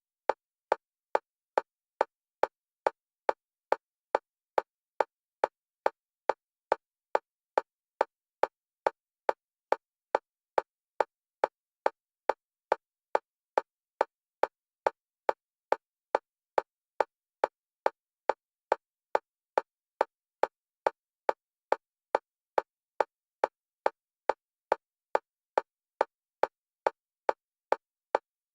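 Fast metronome clicks on a single pitch, evenly spaced at about two and a half a second and steady throughout, each a short pitched tick. It is an EMDR bilateral-stimulation track in which the clicks alternate between the left and right stereo channels.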